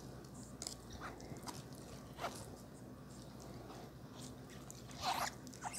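Close-miked eating: a person chewing a mouthful of noodles and meat, making faint scattered wet mouth clicks and small crunches, with louder ones a little over two seconds in and about five seconds in.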